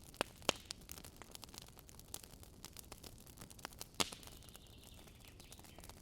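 Wood fire crackling, with irregular sharp pops. A louder pop about half a second in, another about four seconds in, and a faint hiss for a second or so after the second pop.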